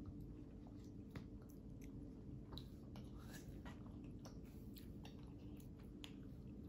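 Faint chewing with small scattered clicks as chocolate coating from an ice cream bar is eaten, over a steady low room hum.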